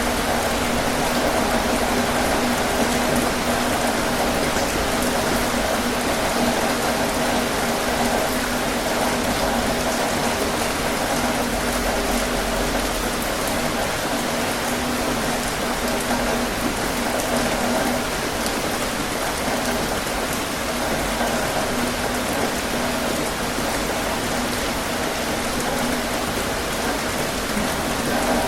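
Heavy rain falling steadily on a tin roof, an unbroken even wash of sound.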